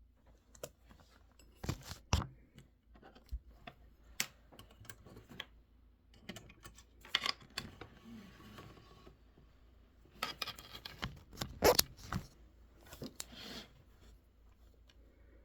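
Scattered clicks and knocks with a few short stretches of rustling, the sound of objects being handled at a study desk. The loudest knocks come about two seconds in and again near twelve seconds.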